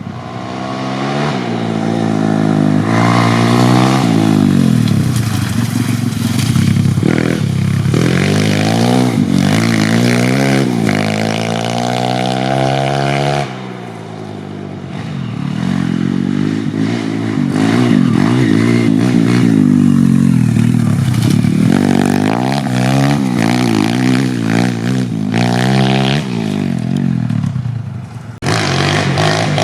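YCF 150 Classic pit bike's 150cc four-stroke single-cylinder engine ridden hard, its pitch rising and falling over and over as it revs up through the gears and backs off. The engine eases off briefly about halfway through and again near the end.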